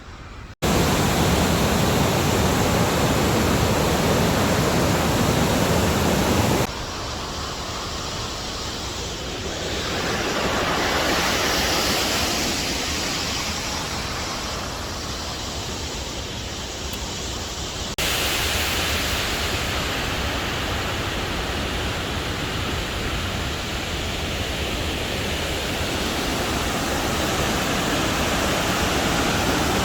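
Waterfall: a steady rush of falling water. It jumps in level abruptly three times, loudest in the first six seconds, as the sound changes from one shot to the next.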